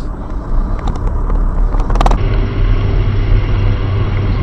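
Steady low rumble of a car driving, as picked up by a dash camera, with a sharp click about two seconds in.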